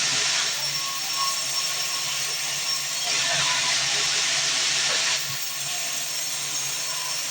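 Band sawmill running, its blade cutting through a log with a steady hissing rasp that eases off slightly about five seconds in.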